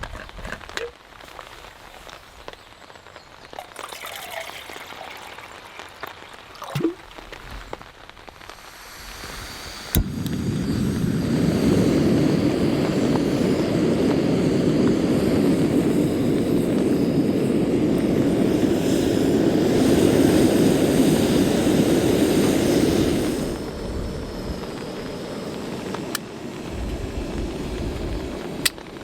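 Rain pattering with scattered drop ticks, then a sharp thunder crack about ten seconds in that turns into a loud, long rolling rumble lasting over ten seconds before it drops away, the rain still falling.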